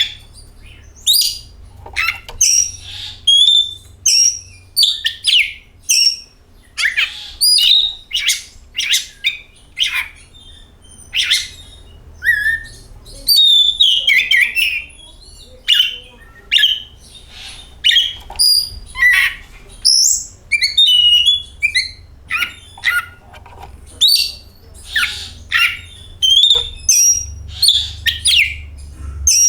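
Oriental magpie-robin (kacer) singing a long run of loud, varied chirps and whistles in quick succession, over a faint low hum.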